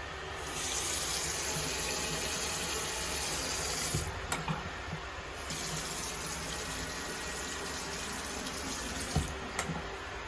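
Water running from a newly replaced washbasin faucet into the basin, turned on and off twice, with a sharp knock after each stop. This is a trial run of the new faucet and drain trap.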